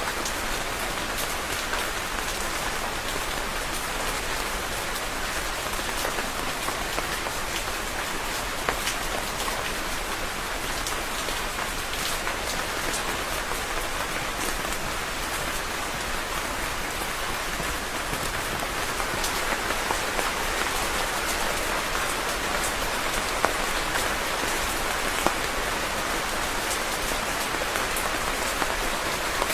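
Steady rain falling on a surface, a continuous even hiss with the ticks of individual drops scattered through it.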